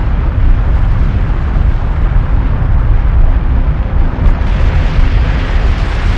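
Volcanic eruption at Stromboli: a loud, continuous low rumble with dense noise and no distinct separate blasts.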